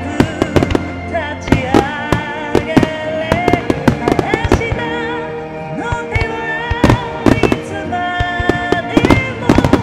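Fireworks bursting in rapid, irregular succession, many sharp bangs a second, over loud music for a fireworks show set to music.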